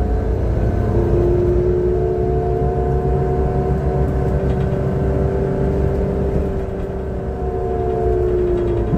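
Transperth bus TP1422's engine and driveline running under way: a low rumble with a steady whine held at an even pitch. The uploader calls it a bad engine sound.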